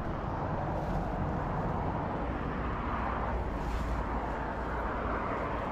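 Strong wind on the microphone: a steady rumble that swells in the middle, over outdoor background noise.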